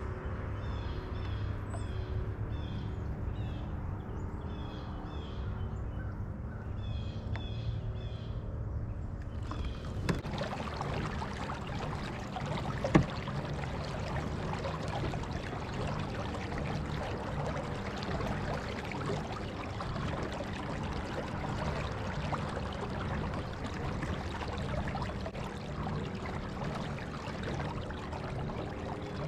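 Fishing kayak moving across the water, with a steady low hum under a rush of water along the hull that sets in about ten seconds in. Birds chirp in short bursts during the first third. Two sharp knocks come a few seconds apart after the rushing starts.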